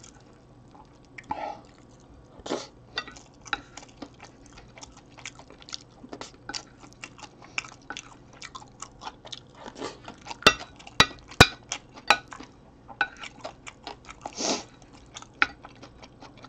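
Close-up chewing and biting of a mouthful of rice with kimchi, with a wooden spoon and chopsticks clicking and scraping on a ceramic plate. About two-thirds of the way through come three sharp clinks, the loudest sounds.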